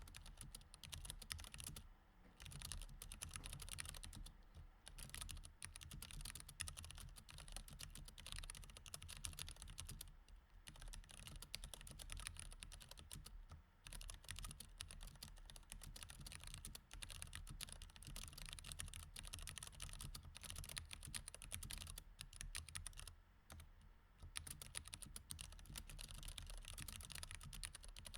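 Steady, quick typing on a mechanical keyboard with Cherry MX Red switches: a dense run of soft key clicks, broken by several brief pauses.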